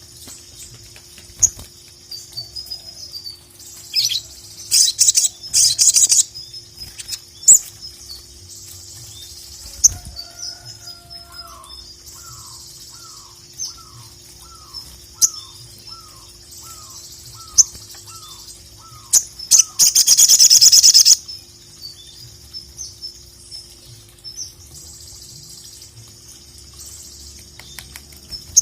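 Sogon (sogok ontong) sunbird singing in full song: high, thin chirps and trills with sharp clusters of notes. Midway comes a run of about a dozen short falling notes, and about 20 s in a dense, loud burst of song lasting a second or so.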